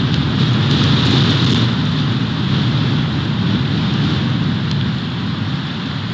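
Snowstorm wind buffeting the nest camera's microphone: a steady, loud low rumble with a hiss above it, easing slightly near the end.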